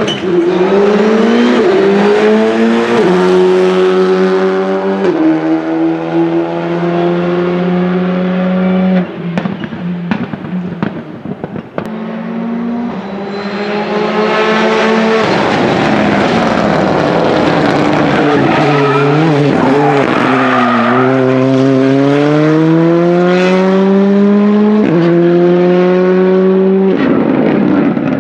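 Rally cars on tarmac under hard acceleration, the engine note climbing and dropping sharply at each upshift. After a short lull about ten seconds in, a second run builds up. Its engine dips and wavers about twenty seconds in, with some tyre squeal, then pulls up through the gears again.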